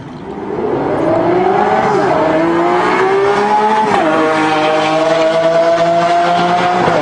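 Car engine accelerating hard, rising in pitch through the gears, with two upshifts, about two and four seconds in, each dropping the pitch before it climbs again.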